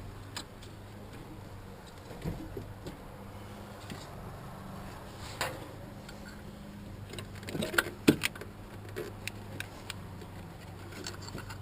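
Scattered small clicks and taps of hand tools and metal engine parts being handled, with a sharper knock or two about eight seconds in, over a steady low hum.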